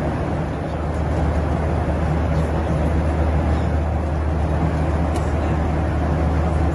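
Steady airliner cabin noise: a constant low drone with an even rushing hiss.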